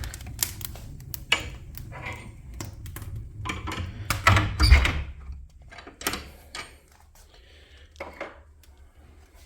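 Wood fire crackling in the cast-iron firebox of a fireplace, with the glass firebox door swung shut and closing with a heavy metal clunk about four and a half seconds in.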